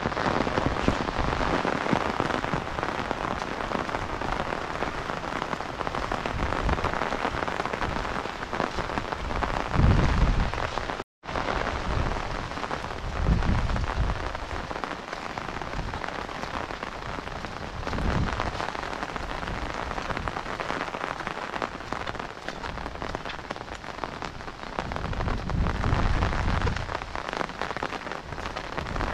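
Heavy rain falling steadily, a dense even hiss of drops on the wet brick road and surrounding vegetation. Low rumbles swell and fade several times, about ten, thirteen, eighteen and twenty-six seconds in. The sound cuts out completely for an instant just after eleven seconds.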